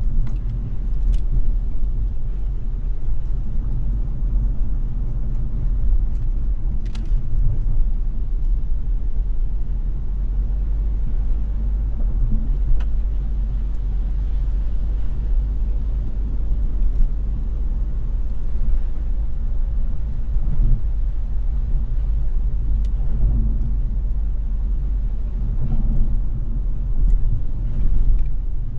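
Car driving on a wet road in the rain: a steady low rumble of road and engine noise with an even hiss of tyres and rain, and a few faint ticks.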